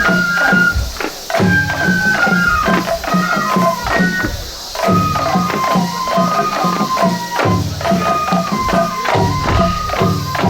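Japanese festival hayashi music for a shishimai lion dance: a high flute plays a stepping melody over regular taiko drum strokes and clicking, jingling percussion.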